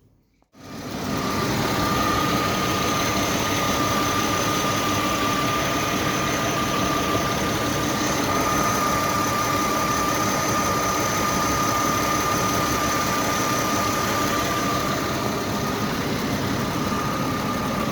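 Mercedes M112 E32 3.2-litre V6 engine idling steadily, with a thin, steady high whine over the running. It starts abruptly about half a second in.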